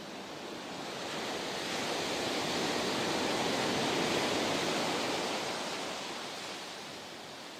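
Ocean surf: a wave rushing in, swelling to its loudest about halfway through and then washing back out.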